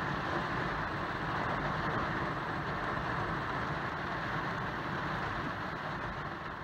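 Steady rain falling on a car's windshield and roof, heard from inside the cabin.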